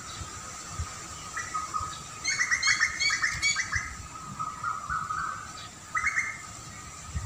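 Wild birds chirping, with a quick run of short chirps about two to four seconds in and a brief second burst near the end. A steady thin high tone runs underneath.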